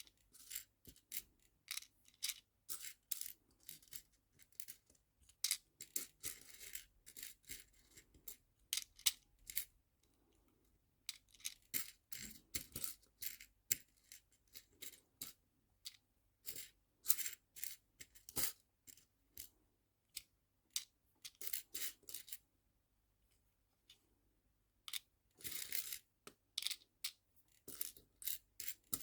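Small nail-art charms clicking and tinkling as they are handled and dropped into storage boxes, in quick irregular taps, with short pauses about ten seconds in and again a little before the end.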